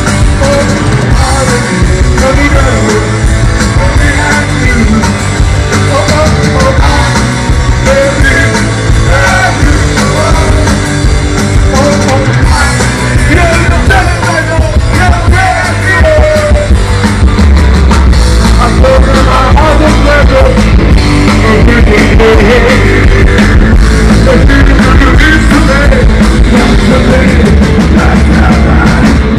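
Loud rock music with singing, running without a break.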